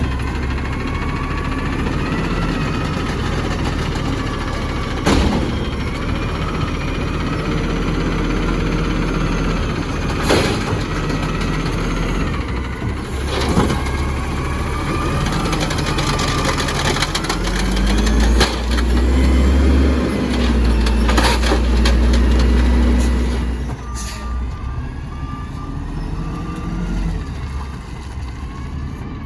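Garbage truck engine running, with a few sudden sharp bursts over it. About halfway through the engine revs up and holds high for several seconds, then drops back, and near the end a run of short, evenly spaced high beeps sounds.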